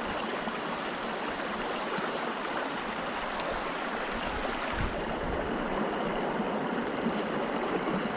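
Steady rush of flowing river water, the river running high after floods, with a brief low knock about five seconds in.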